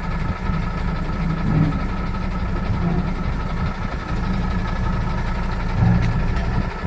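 Heavy diesel engine idling steadily with a deep rumble, swelling slightly now and then.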